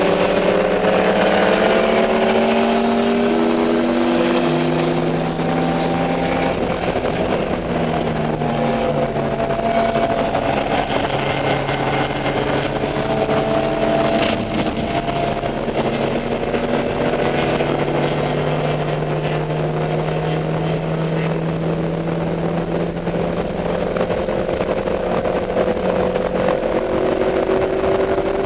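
Dodge Neon race car's four-cylinder engine at racing speed, its pitch stepping up and down with gear changes and holding one long, slowly rising pull through the middle. A single sharp click about fourteen seconds in.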